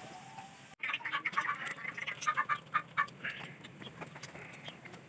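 Backyard domestic fowl calling: a run of short, repeated calls in quick clusters that starts abruptly about a second in.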